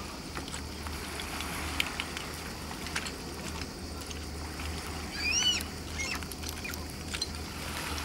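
Outdoor ambience: a steady low hum with a few faint clicks, and a short high chirp that rises and falls about five seconds in, a small bird's call.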